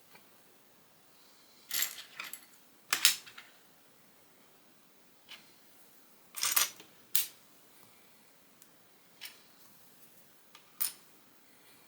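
Lego plastic bricks being handled and pressed together: irregular sharp clicks and short clatters, in small clusters a second or two apart.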